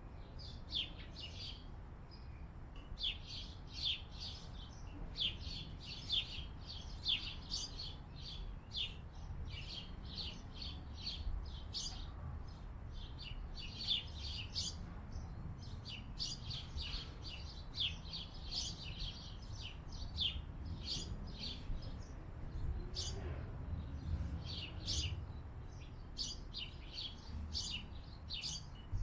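Small birds chirping steadily, a dense run of short, high chirps with hardly a gap, over a low steady rumble.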